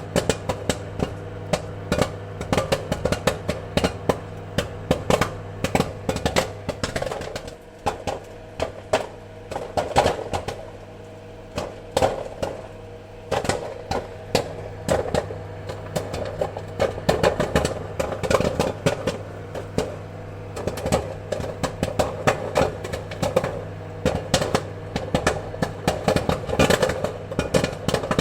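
Popcorn kernels popping: rapid, irregular sharp pops, several a second, thinning briefly about eight seconds in, over a steady low hum.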